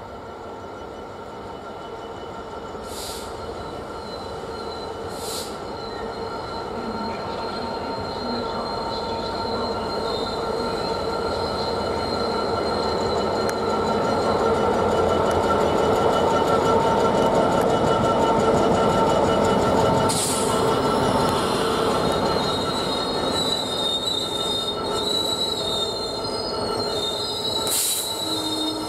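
Class 66 diesel-electric freight locomotive, with its two-stroke EMD V12 engine, running louder as it approaches and passes hauling a container train. In the second half the wagon wheels add high-pitched squealing, with a few sharp clicks from the track.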